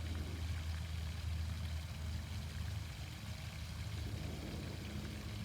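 Garden fountain's water splashing steadily, over a low steady mechanical hum.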